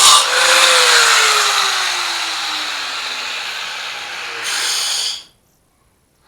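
Angle grinder on steel welds: grinding stops and the motor winds down with a falling whine. A short burst of grinding comes about four and a half seconds in, then cuts off suddenly.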